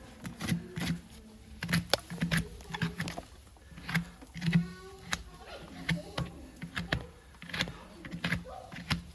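Irregular sharp clicks and knocks of farrier tools worked against a horse's hoof, a dozen or more strikes at an uneven pace.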